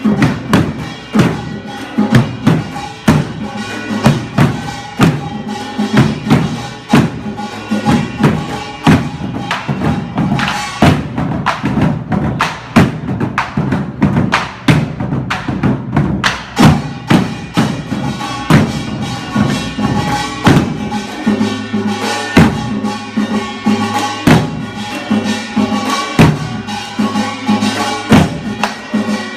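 Korean buk barrel drums beaten in a fast, steady rhythm for a pungmul drum dance, with sustained ringing tones over the beats.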